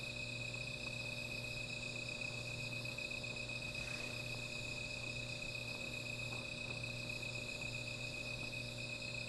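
Crickets chirping in a steady, continuous high trill, with a low steady hum underneath.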